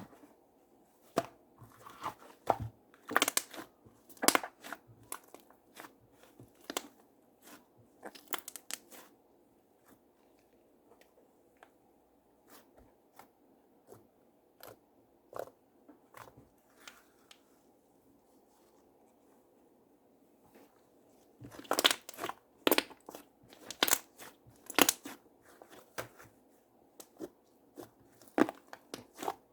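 Slime being squeezed and pressed by hand, giving irregular sharp clicks and crackles in clusters. The clicks are densest at the start and again in a burst about two thirds of the way in, with a quieter stretch between.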